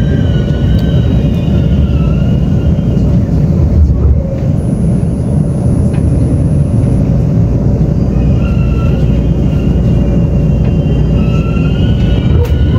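Taiwan Railway express train running, heard from inside a passenger car: a loud, steady rumble of the wheels on the track. Thin, high squealing tones drift in pitch at the start and return in the last few seconds.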